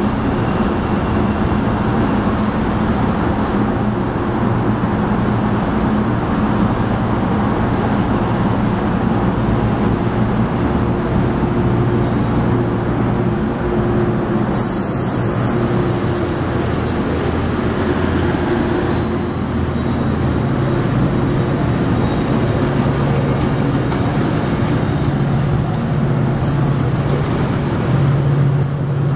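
Metrolink bilevel commuter train pulling out past the platform and picking up speed: a steady rumble of wheels on rail with the hum of the diesel engine, faint wheel squeal, and a stronger engine hum building near the end.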